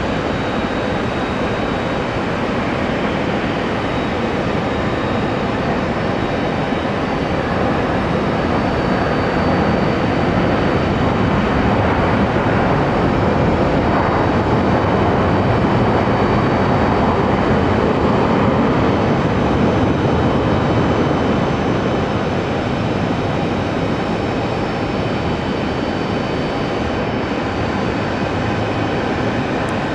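Jet airliner engines: a steady rushing noise with a faint high whine, swelling to a peak about halfway and easing off again as the aircraft passes.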